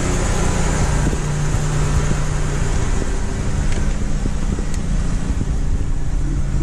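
A 2006 Chevy Impala's 3.5-litre V6 engine idling steadily.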